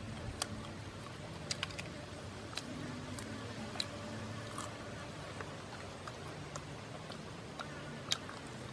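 Crunchy chewing of roasted dung beetles: scattered sharp crackles and clicks as the shells are bitten and chewed, a louder crack near the end.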